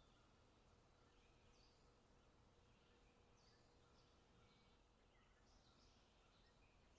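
Very faint forest ambience: short bird chirps come and go at irregular intervals over a low background hiss.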